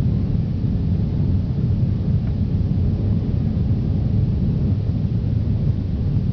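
Steady low rumble of an Airbus A340 during takeoff, its four CFM56 engines and airflow heard from inside the passenger cabin.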